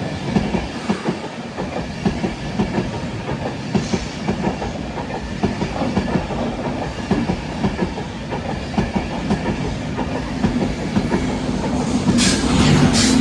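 InterCity 225 train (Class 91 electric locomotive 91110 with Mark 4 coaches and driving van trailer 82222) passing through, its wheels clattering rapidly over the rail joints. A steady hum and a rise in hiss come in near the end.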